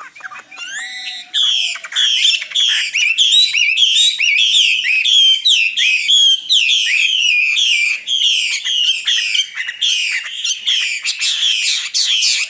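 Nightingale singing: a fast, unbroken stream of sharp, repeated notes and quick up-and-down whistles that swells up about a second in.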